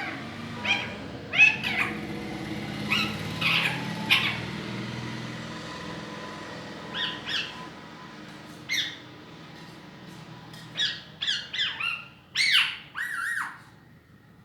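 Baby parrot making short, harsh squawking calls in scattered groups of two or three, with pauses between them; the loudest group comes near the end.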